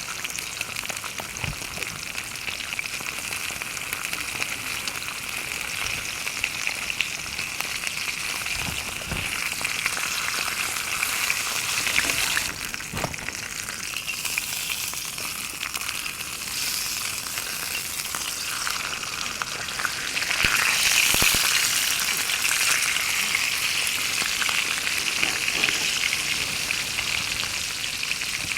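Black wagyu steak sizzling in a pan over a campfire, a steady hiss that grows louder about two-thirds of the way through, with a few soft knocks.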